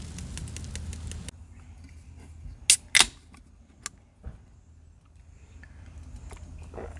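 Wood campfire crackling, cut off abruptly about a second in; then quiet with a few sharp clicks, two loud ones close together near the middle.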